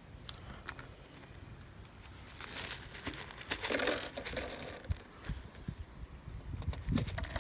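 Ring-shaped breakfast cereal being poured into small cups: the bag crinkling and little pieces rattling in short spells, loudest about halfway through.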